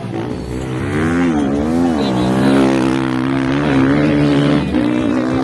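Motocross dirt bike engines revving hard, the pitch swinging up and down with the throttle, then holding a steady high note before a brief drop near the end.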